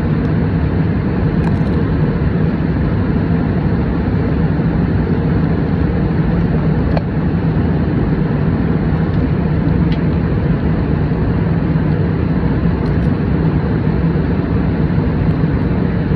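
Steady cabin noise of an airliner in flight: the constant low rumble of engines and airflow, with no change throughout.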